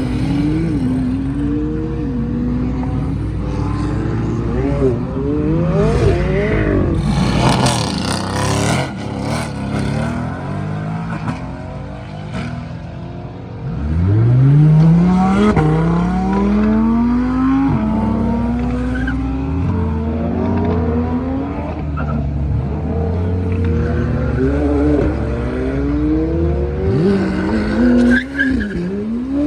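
High-performance car engines revving and accelerating hard off the line, one after another, the pitch climbing through each gear and dropping at every upshift. The strongest launch comes about 14 seconds in, with some tyre squeal.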